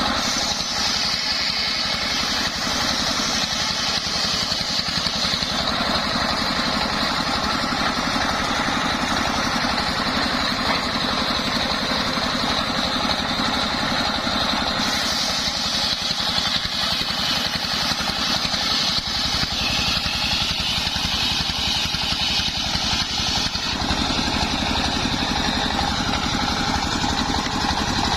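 Engine-driven homemade circular saw running steadily, with the engine's rumble under a high whine from the saw that shifts in pitch a few times.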